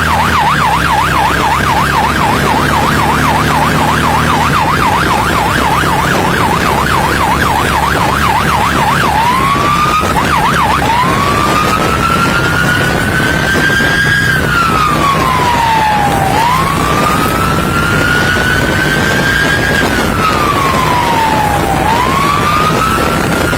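Police siren on a fast yelp, switching about nine seconds in to a slow wail that rises and falls every few seconds, over steady engine and road noise.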